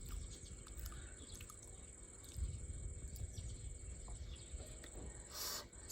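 Faint steady high-pitched insect chorus, like crickets trilling, over a low rumble with scattered small clicks. A short burst of hiss comes about five and a half seconds in.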